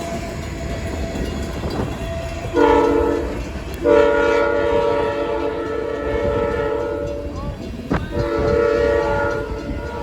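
CSX freight locomotive's multi-chime air horn sounding a short blast, then two long ones, over the steady rumble of the passing train.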